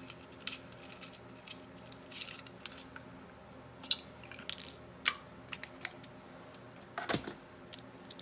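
Hands rummaging through small craft supplies while searching for a paper clip: scattered light clicks and clinks of small objects, with one louder knock about seven seconds in.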